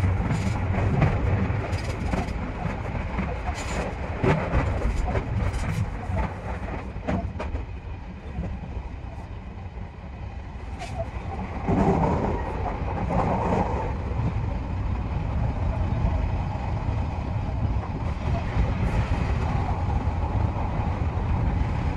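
Odakyu 3000 series electric train running, heard from the driver's cab: steady running noise with a quick series of wheel clicks over rail joints in the first several seconds, then a quieter stretch and a louder swell about twelve seconds in.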